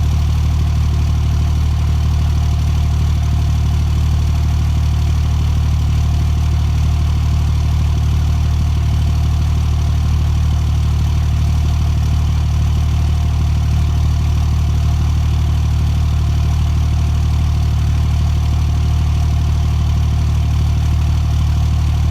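Engine idling steadily after a cold start, running with a misfire.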